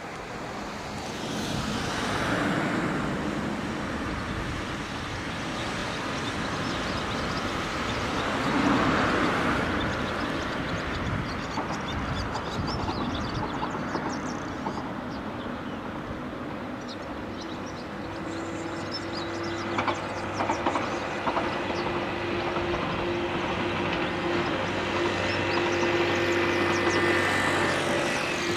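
A 113-series electric train running along the line over a steady wash of outdoor noise. A low, steady hum comes in about two-thirds of the way through, with a few sharp clicks soon after.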